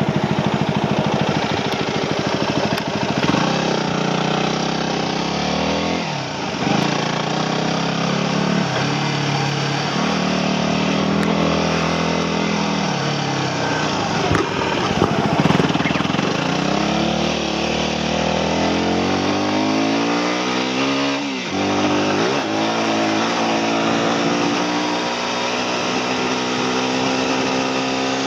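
Motorcycle engine while riding, revving up through the gears: the pitch climbs and then drops sharply at each shift, several times, over steady wind and road noise.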